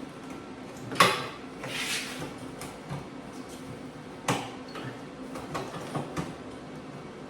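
Sheet-metal muffler parts clanking as they are handled and set in place for tack welding: a loud sharp metal knock about a second in, followed by a short hiss, another knock about four seconds in, and a few lighter taps after it.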